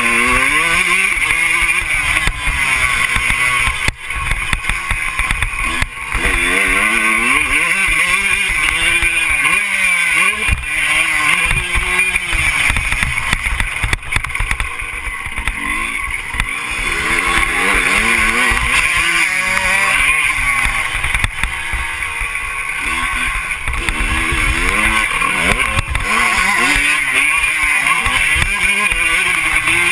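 Motocross bike engine revving up and falling back over and over, as it would through gear changes and corners, under heavy wind noise buffeting the camera microphone.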